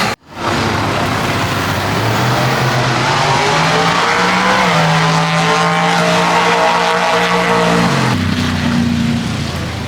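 Car engine at high revs, its pitch climbing over the first few seconds, holding, then dropping sharply about eight seconds in, over a loud hiss of tyre and exhaust noise.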